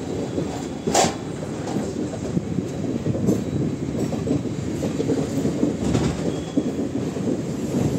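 Passenger express train running at speed, its coach wheels rumbling steadily on the track. A sharp clack comes about a second in, with fainter clacks around three and six seconds, as the wheels cross rail joints and points.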